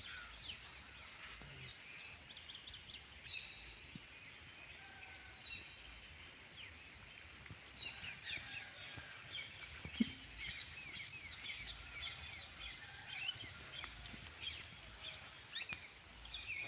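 Birds chirping and calling in many short high notes, busier in the second half, over a faint outdoor background, with one sharp click about ten seconds in.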